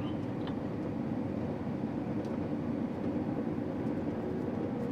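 Steady drone of a running vehicle engine, even throughout, with a few faint ticks over it.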